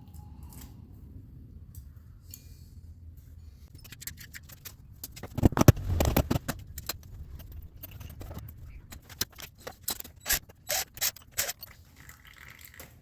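Metal tools and parts clinking and scraping as a hydrostatic transaxle is taken apart, with a louder clatter about five and a half seconds in and a run of separate clinks near the end.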